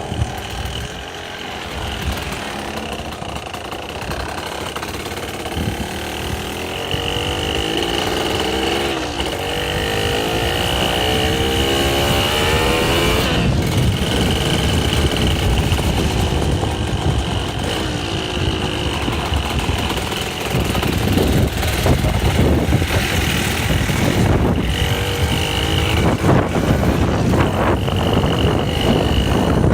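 Dirt bike engine running under way, its pitch climbing as it speeds up, with rushing noise growing louder in the second half.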